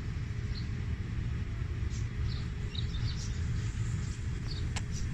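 Outdoor ambience: a steady low rumble with short, high bird chirps scattered through it.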